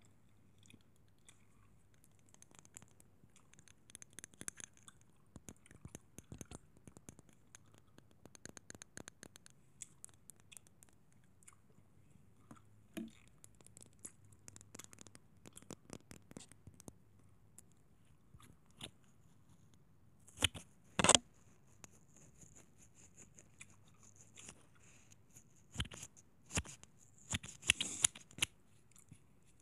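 Close-up ASMR trigger sounds: scattered light clicks, scratches and crinkles of small objects being handled, with a few louder sharp knocks about twenty seconds in and again near the end.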